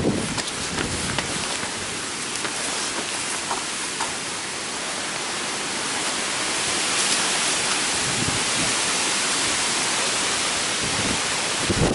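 Heavy typhoon rain falling steadily, an even hiss that grows a little louder about halfway through, with a few brief gusts of wind on the microphone near the end.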